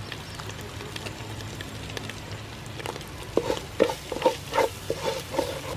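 Curry powder and pounded kreung paste sizzling in hot soybean oil while being stirred in a pan. From about three seconds in, a quick run of sharp knocks cuts through the sizzle.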